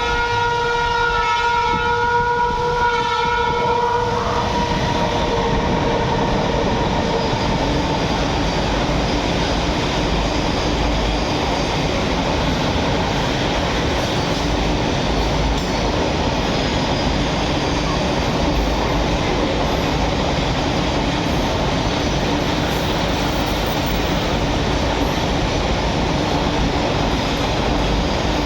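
WAG12 electric freight locomotive's horn sounding for about four seconds. Then a long train of loaded ore wagons rolls past steadily with wheel clatter.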